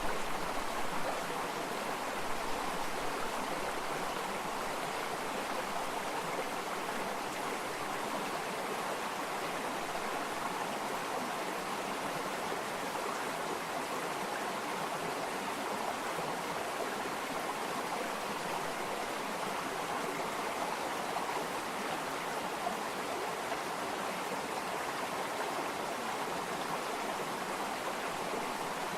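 Flowing water in a stream, a steady rushing and babbling.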